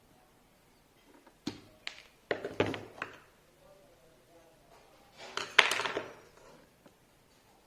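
A few sharp knocks followed by two short bursts of clattering knocks, as of hard objects being handled and set down, the loudest just past the middle.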